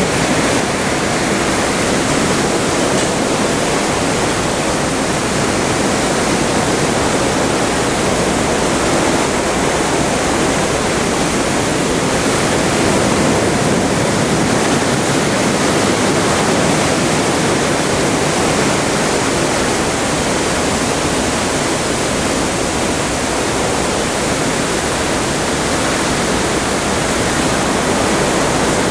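Atlantic seawater rushing past a moving cruise ship's hull: a steady, unbroken wash.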